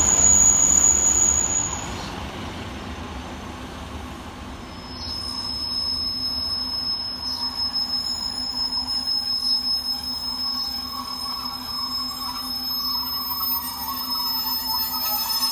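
A Class 156 diesel multiple unit drawing slowly into the station, its low steady hum overlaid from about five seconds in by a steady high-pitched squeal. In the first couple of seconds a different train can be heard pulling away.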